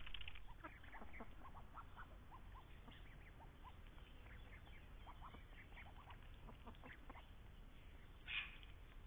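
Faint bird calls: many short, thin chirps scattered throughout, with one louder, harsher call about eight seconds in.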